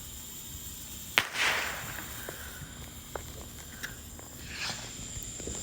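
A sharp firework pop about a second in, followed by a brief hiss, then a few faint pops and crackles.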